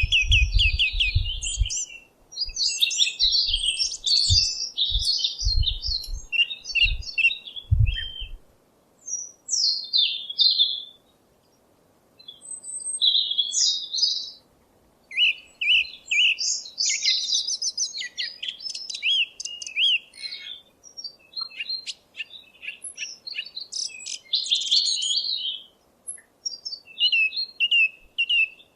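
Songbirds chirping and singing, many quick overlapping calls and trills with a few short pauses. Low thuds sound underneath during roughly the first eight seconds.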